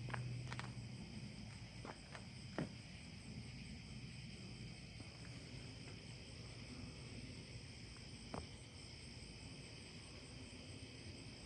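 Night insect chorus: crickets chirping steadily in a high, even drone. A few short clicks or taps stand out, one about a quarter of the way in and another near three quarters.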